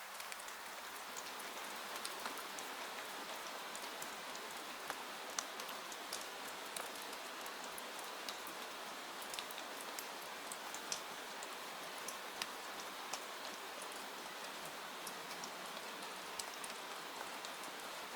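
Steady rain hiss with scattered sharp ticks of drops or crackles.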